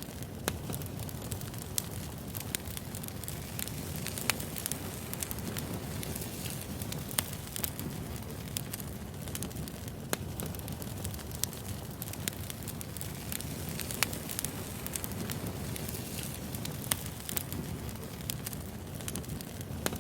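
Wood fire burning: a steady low rush of flames with frequent sharp crackles and pops from the burning logs.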